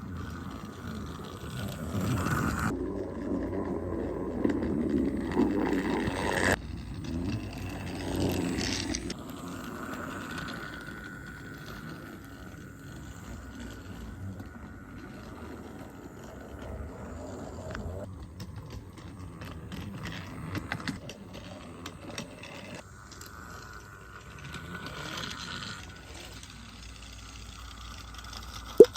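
Battery-powered motorized Thomas & Friends toy trains running along plastic track, their small motors whirring with wheels rattling over the track joints. The sound is louder and rougher for the first several seconds, then settles to a steadier hum, with one sharp click near the end.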